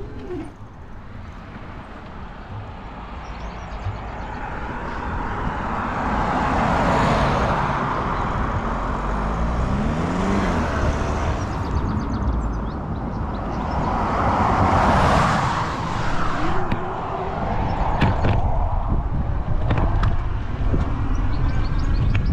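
Cars passing on a main road, two of them swelling past and fading, over steady wind buffeting the microphone.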